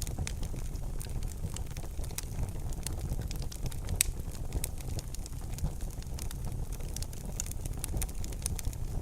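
Wood fire burning in a fireplace: a steady low rumble of the flames with frequent irregular crackles and pops, one louder pop about four seconds in.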